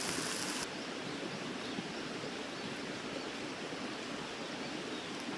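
A high hiss that cuts off suddenly just under a second in, giving way to a steady, even rushing of outdoor background noise.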